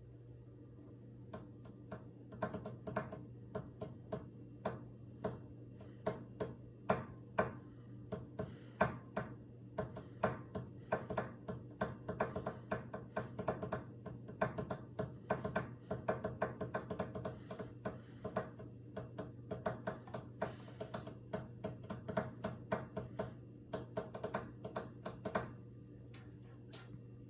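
Hunter Regalia ceiling fan motor humming steadily while running. Over it come rapid, irregular sharp clicks, several a second, that start about a second and a half in and stop a couple of seconds before the end.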